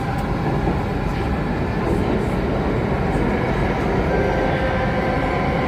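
Alstom Metropolis C830 metro train running between stations, heard from inside the passenger cabin: a steady rumble of wheels and running gear, with a faint steady tone coming in about four seconds in.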